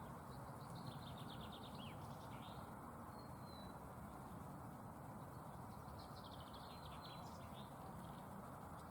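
Small songbird singing faintly in woodland: two similar phrases, each a thin high whistle and a quick run of rapid notes, about a second in and again about six seconds in, over a steady low background hiss.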